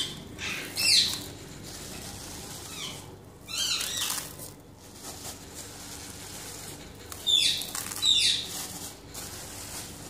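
Small pet birds chirping in short, quickly falling calls, in several bursts: about a second in, near four seconds, and twice more near the end.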